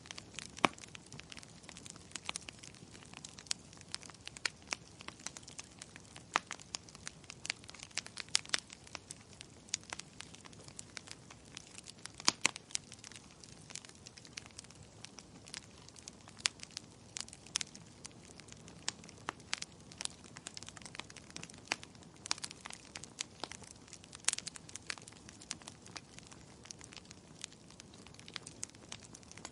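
Wood fire burning in a fireplace, crackling and popping irregularly over a faint steady hiss, with a few sharper, louder pops now and then.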